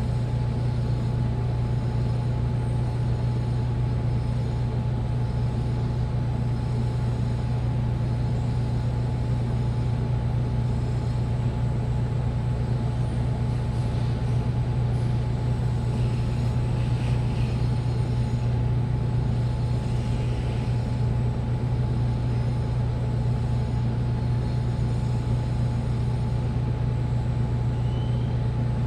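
Washing machine running steadily: a constant low hum with a faint steady high whine above it.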